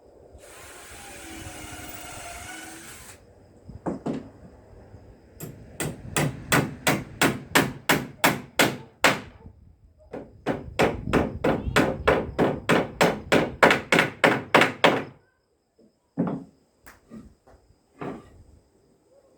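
Hammer driving nails into wood: two runs of quick, even blows, about four a second, then a few scattered knocks.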